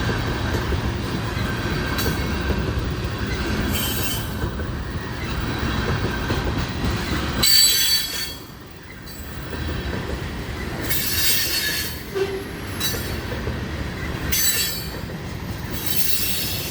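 Train cars rolling past at close range: a steady rumble of wheels on rail, with bursts of high-pitched wheel squeal every few seconds and a brief drop in loudness about eight seconds in.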